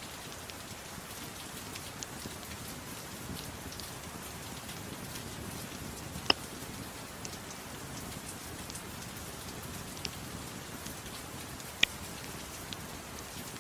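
Soft steady rain mixed with a crackling fireplace: an even hiss with sparse sharp pops, two louder ones about six and twelve seconds in.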